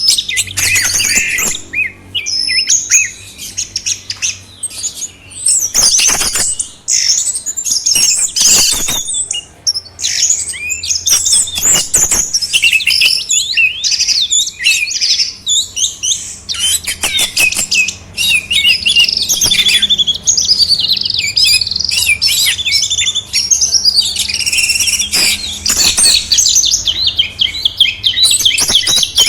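Songbird song: rapid, varied high-pitched chirps and warbled phrases, nearly continuous with a few short pauses.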